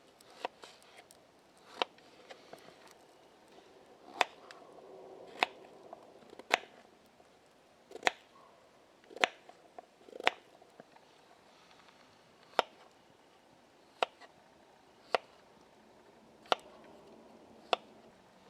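Crisp cutting or chopping strokes with a blade, each a short sharp click, coming about once every second or so, about a dozen in all, with lighter scraping between them.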